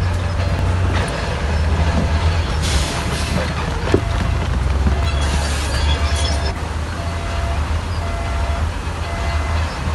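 Heavy diesel earthmoving machinery running with a deep, steady rumble. Two short bursts of hiss break in, and a faint beep repeats about once a second.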